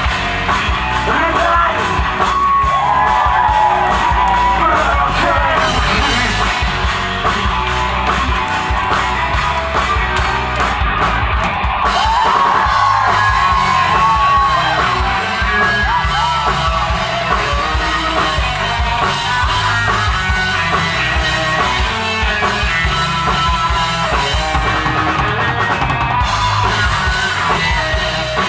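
Live alternative rock band playing, a vocalist singing and shouting over drums and guitars.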